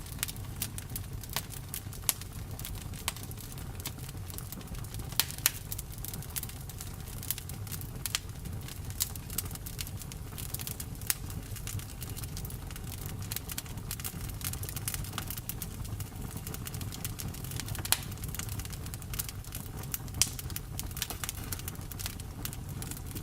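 Campfire burning: irregular sharp crackles and pops over a steady low rumble of the flames, with a few louder pops.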